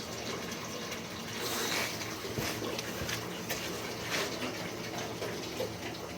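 Water running and gushing from a steam boiler's drain valve, with a few sharp clicks and knocks.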